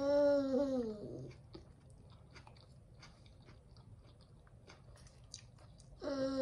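A woman chewing a mouthful of burger close to the microphone: a rising-and-falling "mmm" of enjoyment at the start, then small wet chewing and smacking clicks, and near the end a long, steady "mmm" hum.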